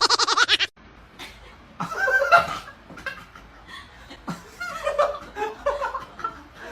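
A person laughing and chuckling in short, soft bursts. Before them, a loud pitched sound cuts off under a second in.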